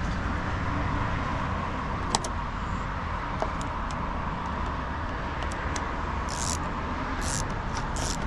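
Steady outdoor background noise, with a sharp click about two seconds in, a few faint ticks, and short scraping rustles near the end, from hands fitting and hand-tightening the bolts of a car's exterior door handle.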